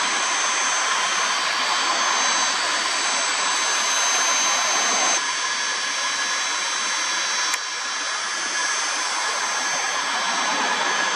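Learjet C-21A's twin Garrett TFE731 turbofans running steadily, a whooshing rush with a high-pitched whine. The sound changes abruptly about five seconds in, losing some of its low rumble, and a sharp click comes near eight seconds.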